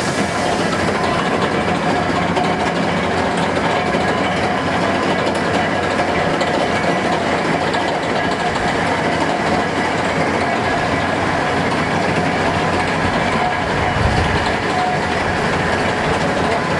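Old railway turntable turning, a steady mechanical rumble and grinding with a faint steady whine running through it.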